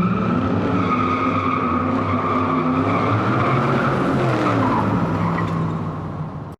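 Car engine running and shifting in pitch under a steady high squeal like skidding tyres, cutting off suddenly near the end.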